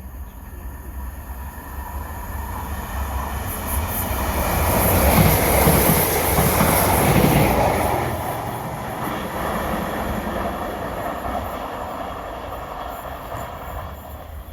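A train passing through at speed, with wheels running on the rails. It builds to its loudest about five to seven seconds in, then fades away.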